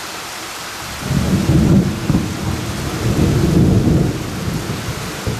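Thunder rumbling over steady rain: the rain's hiss, then about a second in a loud, rolling rumble of thunder that lasts about four seconds and eases off near the end.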